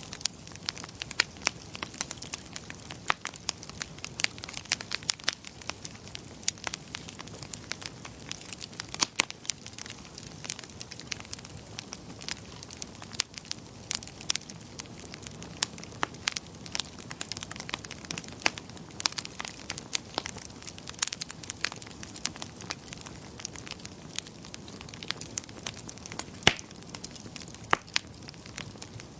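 Wood fire in a fireplace crackling: irregular sharp pops and snaps, several a second, over a steady low hiss.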